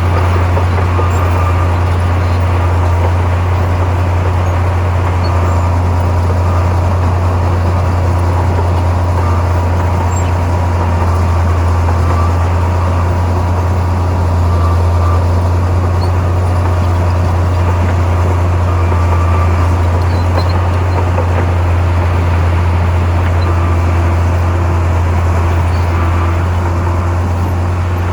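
Heavy diesel engine of a Komatsu bulldozer running steadily, a strong low drone that holds at an even pitch and level.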